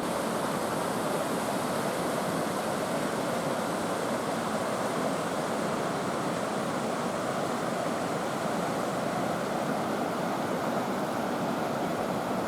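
Steady rush of flowing water from a river waterfall.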